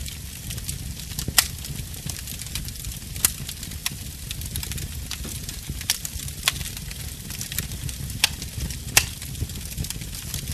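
Wood fire crackling in a fireplace: irregular sharp pops and snaps over a steady low rumble of the flames, with a few louder pops spread through.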